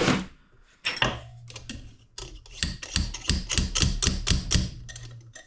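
Wrench on a socket being worked to draw a stubborn part into a Polaris Sportsman 90 engine: a quick run of metal clicks, about three or four a second, over a low steady hum.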